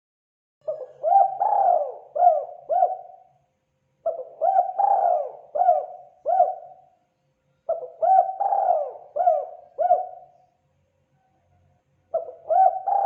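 Spotted dove cooing: four phrases of four or five quick coos each, a few seconds apart.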